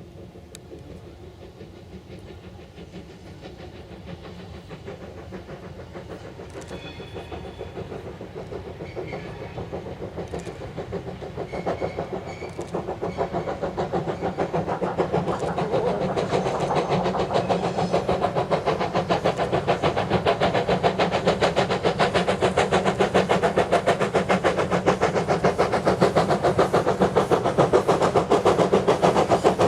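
Steam locomotive working under steam, its exhaust beats coming fast and even and growing steadily louder as it approaches.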